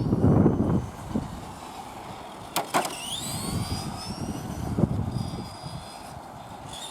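Tamiya radio-controlled truck driving: a rough low rumble with louder surges in the first second, a sharp knock about two and a half seconds in, then a high whine from the electric motor and gears that rises and glides in pitch as it speeds up.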